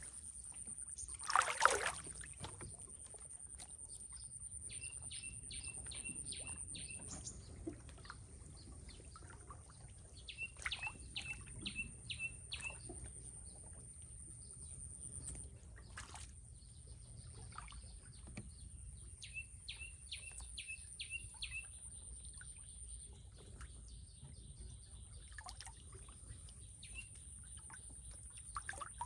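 Rural wetland ambience: a steady high insect-like buzz, with a bird calling in runs of five or six short, quick notes three times. Scattered small splashes and knocks of water, the loudest about a second and a half in.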